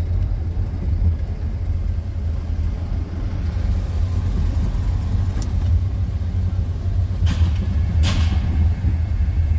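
A steady low mechanical rumble, with a few short clicks about five seconds in and again around seven and eight seconds.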